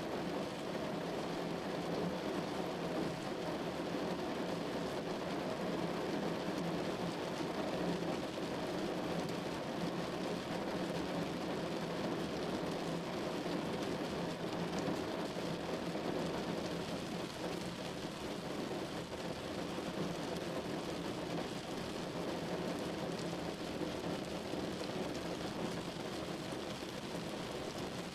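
Steady rain falling on a window, an even hiss and patter that holds constant.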